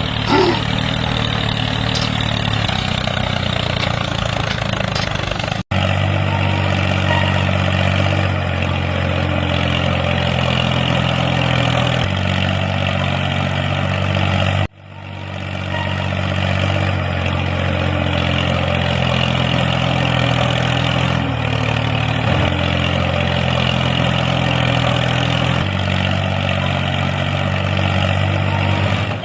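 Steady engine-like running drone, as of a tractor, holding an even pitch. It cuts off abruptly about six seconds in and again about fifteen seconds in, each time resuming at once.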